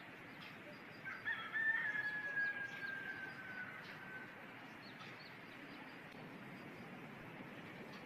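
Rooster crowing once: a long call starting about a second in, held and slowly falling in pitch over about three seconds, over a steady background hiss.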